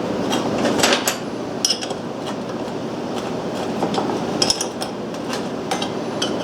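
Metal parts of a bench grinder tool rest clinking and scraping as the rest is slid along its slotted bracket and handled. There are several sharp clicks, about a second in, near the middle and near the end, over a steady background hiss.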